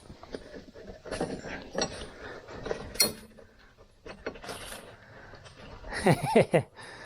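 Irregular mechanical clicks, knocks and scraping from work on a jacked-up car's front suspension, with a sharp knock about three seconds in and a short wavering squeak near the end.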